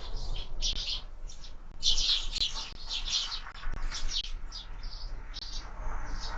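Sparrows chirping, short high chirps repeated several times a second, with a steady low hum underneath.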